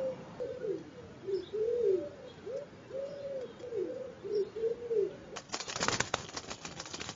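Wood pigeon cooing: a run of short, arched low notes. It is followed about five seconds in by a loud flurry of wingbeats as a pigeon flaps.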